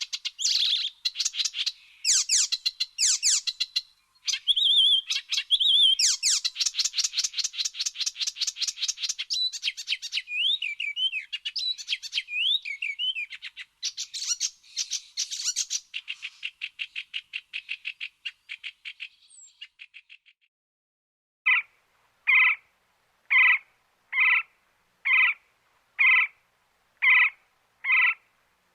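Songbirds singing: fast runs of chirps, trills and gliding whistles, overlapping. They thin out and stop about twenty seconds in. After a brief pause, an animal gives a steady series of short calls, about one a second.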